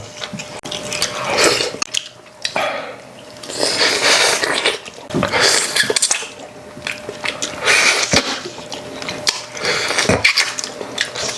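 Eating at the table: spoons and chopsticks clinking against bowls, and pork-bone soup being slurped and chewed in several bursts of one to two seconds each.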